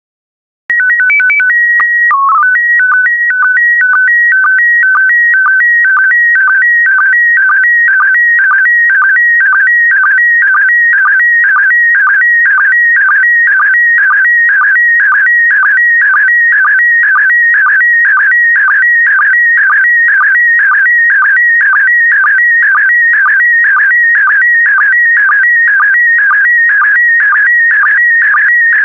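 Slow-scan television (SSTV) signal in PD120 mode. After a moment of silence it opens with its calibration header: a few short beeps, a steady high leader tone and a brief dip in pitch for the mode code. It then settles into the image scan, a shrill warbling tone broken by sync pulses about twice a second, each pulse starting the next pair of picture lines.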